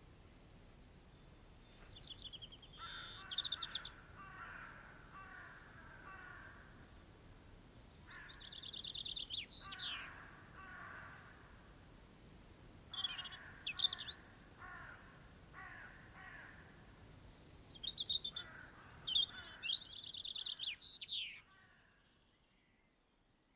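A bird singing four phrases a few seconds apart. Each phrase has a quick high trill and a run of lower notes.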